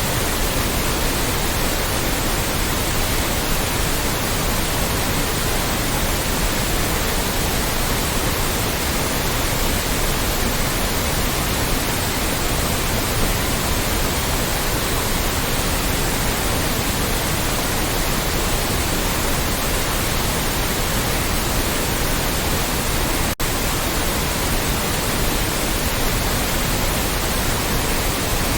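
Loud, steady synthetic white noise, an even hiss spread across all pitches with no tone or rhythm. It drops out for an instant about three-quarters of the way through.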